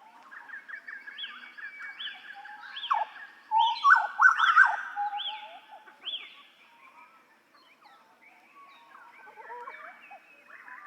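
Butcherbird (jagal Papua) singing: fast chattering notes under a string of short repeated whistled notes about one every 0.8 seconds, loudest about four seconds in, then quieter scattered calls.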